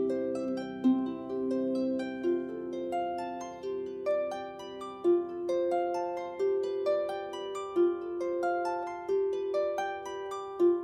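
Solo harp playing a slow melody: single plucked notes about every half second to a second, each left ringing over sustained lower notes.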